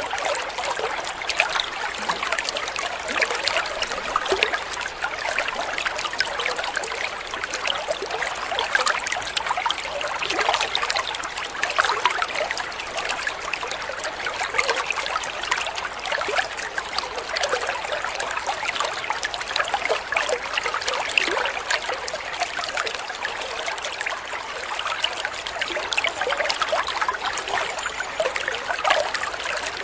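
Water trickling and splashing steadily over stones in a shallow stream, a continuous dense babble of small splashes.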